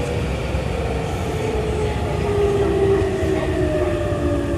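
Running noise of a Tobu 9050 series electric train heard inside the carriage: a steady rumble of wheels on rail, with the traction-motor whine gliding down in pitch as the train slows.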